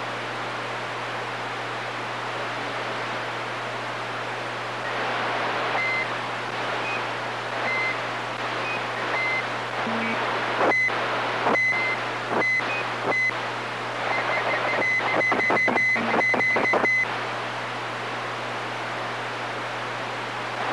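CB radio receiver hissing with open-channel static over a low hum; about five seconds in, someone keys up and sends a series of short high beeps and sharp clicks, ending in a rapid run of clicks and beeps near the end.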